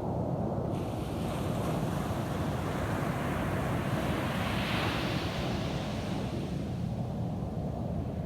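Ocean surf on a beach: a steady low rumble with the hiss of a breaking wave washing in about a second in, swelling to its loudest around the middle and fading out near the end.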